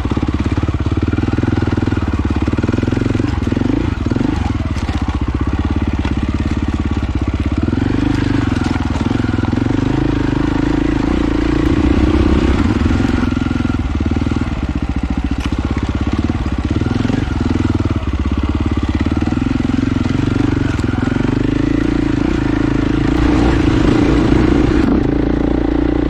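Off-road motorcycle engine running continuously on a single-track trail ride, its pitch rising and falling as the throttle opens and closes.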